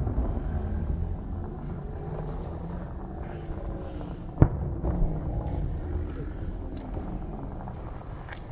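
One sharp firework bang about four and a half seconds in, over a steady low rumble from the display.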